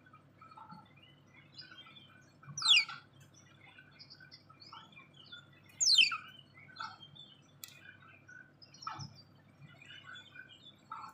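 Small bird calling: two loud, sharply falling whistled notes about three seconds apart, with softer short chirps in between.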